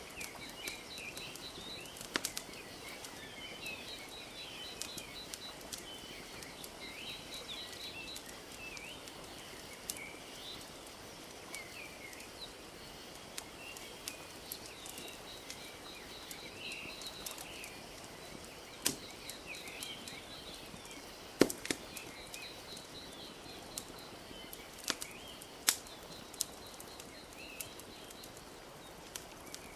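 Wood fire crackling with scattered sharp pops, the loudest about two thirds of the way through, over a steady wash of lapping lake water. Small birds chirp throughout, with a repeated high trill.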